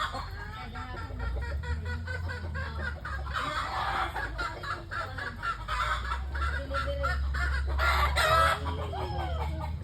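Chickens clucking, a dense run of short repeated calls that grows louder around the middle and again near the end.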